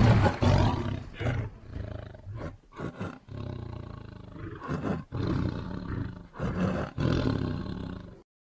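Lion roaring: one loud roar at the start, then a string of shorter, weaker roars broken by brief gaps, cutting off a little before the end.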